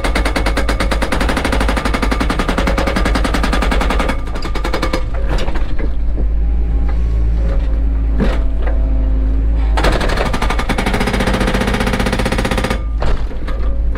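Excavator engine running steadily under a rapid, even rattle of many impacts a second, in two bursts: one over the first four seconds and another of about three seconds starting about ten seconds in.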